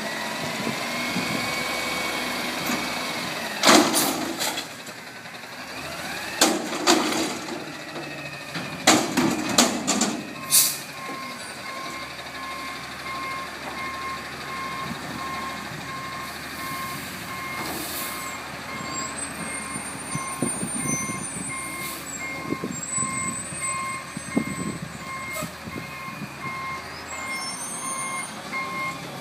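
Front-load garbage truck running, with several loud metallic bangs in the first ten seconds, then its reversing beeper sounding steadily, about one beep a second.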